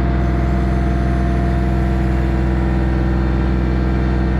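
The LS MT232 compact tractor's 32-horsepower diesel engine runs steadily under load while the backhoe hydraulics lift a heavy log.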